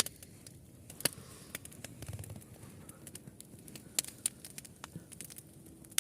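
Wood campfire crackling, with sharp irregular pops and snaps.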